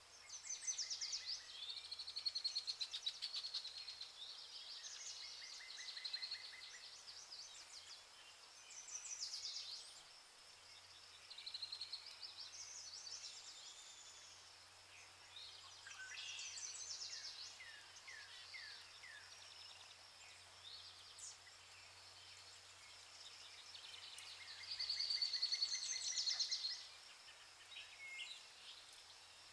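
Songbirds singing: trills, chirps and short sweeping phrases, loudest near the start and again near the end, over a faint steady low hum.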